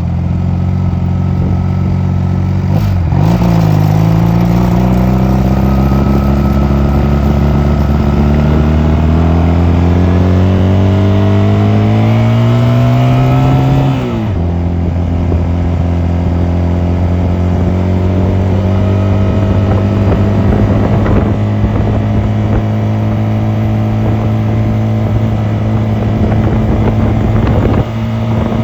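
Honda 250cc motorcycle engine under way. Its pitch dips about three seconds in, then climbs steadily for about ten seconds as it speeds up. It drops suddenly near the middle and then holds steady.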